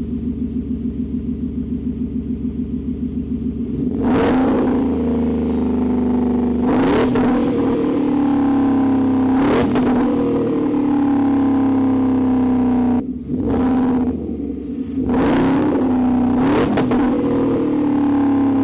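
Whipple-supercharged 5.0 V8 of a 2022 Ford F-150, breathing through a cat-delete Y-pipe and a straight-through Magnaflow muffler, idling with a choppy pulse and then revved sharply five times from about four seconds in. Between revs the engine hangs at a raised speed and falls back slowly, with backfiring on the revs.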